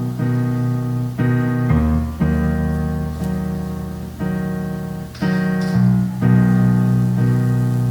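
Piano playing slow, sustained chords that change every second or two over a low bass note, as the instrumental close of a song.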